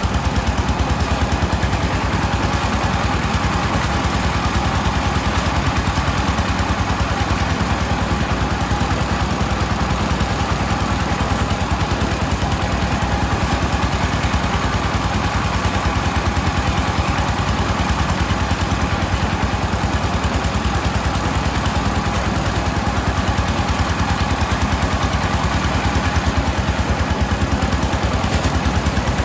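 Small engine-driven rice threshing machine running steadily, its engine beating fast and evenly.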